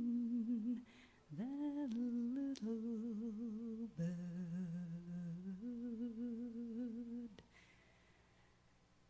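A singer humming a slow melody in long held notes with vibrato, stepping between a few pitches; the humming stops about seven seconds in.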